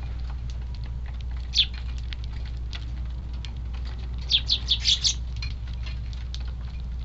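Eurasian tree sparrows chirping: one short chirp about a second and a half in, then a quick run of five chirps around the middle. Underneath run a steady low wind rumble on the microphone and scattered light ticks.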